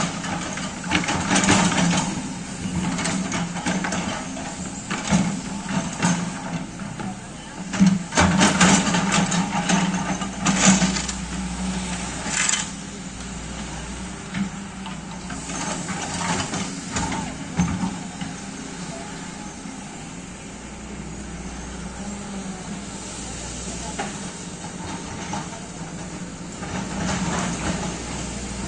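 Backhoe excavator's diesel engine running steadily, with bursts of hiss and several knocks as it works, loudest about eight to eleven seconds in.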